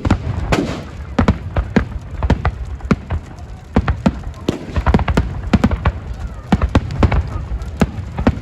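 Firecrackers going off in quick, irregular succession, several sharp bangs a second, over a low rumble of background noise.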